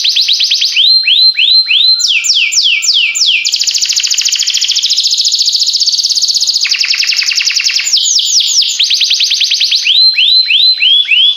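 Canary singing a continuous song: long, fast trills of rapidly repeated notes alternating with slower phrases of high notes that sweep downward, a few per second.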